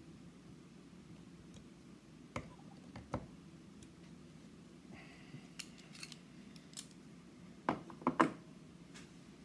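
Scattered light metallic clicks and knocks from hand tools working on a lock's screws, with a loudest cluster of three or four knocks near the end.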